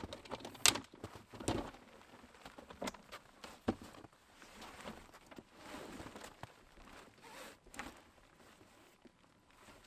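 Camp gear being handled and packed up: two sharp knocks in the first second and a half, then scattered soft clicks and rustling.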